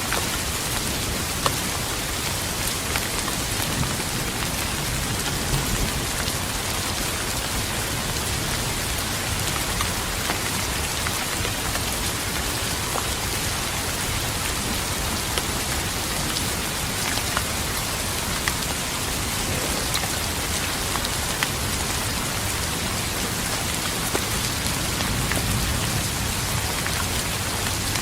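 Steady rain falling on a surface: a dense, even hiss dotted with the ticks of single drops.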